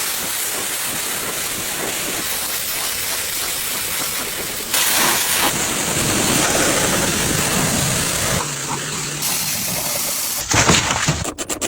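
Steady, loud hiss of a car-detailing cleaning tool blowing air or steam, changing abruptly several times; near the end it breaks into a rapid pulsing.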